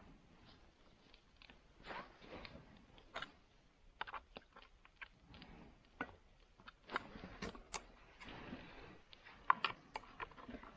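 Campfire crackling and popping in irregular sharp clicks, with a few short scraping sounds among them.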